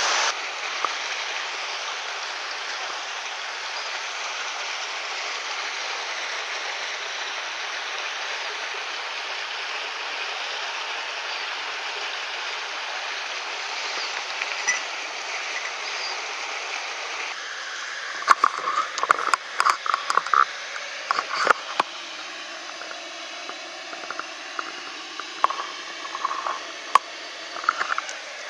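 Mountain stream water rushing as a steady hiss. About two-thirds of the way in, the water sound drops a little and a scatter of sharp clicks and knocks follows.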